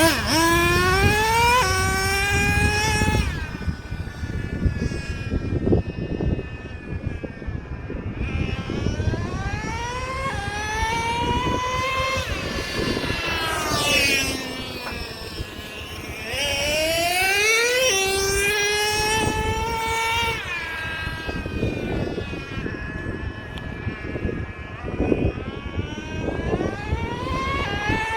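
Traxxas Revo 3.3's nitro two-stroke engine revving up again and again as the truck accelerates on speed runs, each run a rising whine that falls away as the throttle comes off, about five times. Wind rumbles on the microphone underneath.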